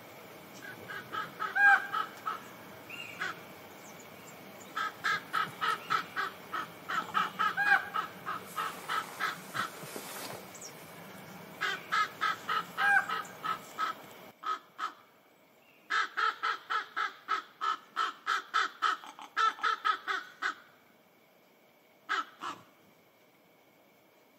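A bird giving bursts of rapid, harsh repeated calls, several a second, each burst lasting a few seconds. About fourteen seconds in the background hiss drops away and the calls go on against a quieter background.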